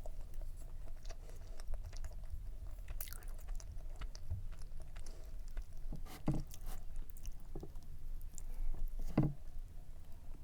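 Close-miked chewing of soft layered cake, with small wet mouth clicks and two louder mouth sounds about six and nine seconds in.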